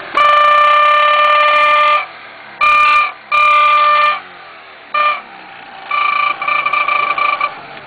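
Exhaust-driven trumpet horn on a Honda CD50 moped with a 49cc Kymco engine, blowing one steady high note in five loud blasts: a long one of about two seconds, two shorter ones, a brief toot, and a last blast that wavers and stutters. The engine runs quietly between the blasts.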